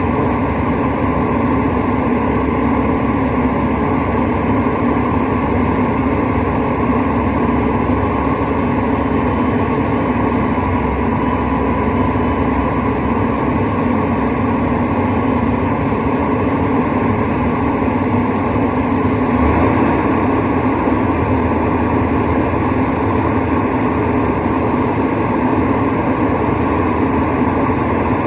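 Rooftop HVAC unit running steadily: a loud, even mechanical drone with a low hum, unchanging throughout.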